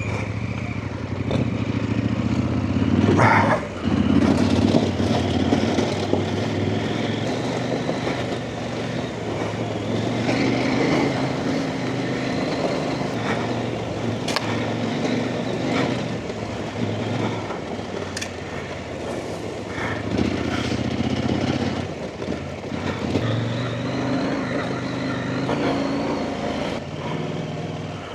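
Off-road trail motorcycle engine running under changing throttle as the bike is ridden along a rough lane, its pitch rising and falling. There are a few sharp knocks along the way.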